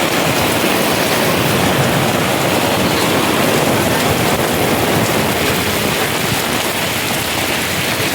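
Heavy storm rain pouring down, a loud, steady rushing hiss with no let-up.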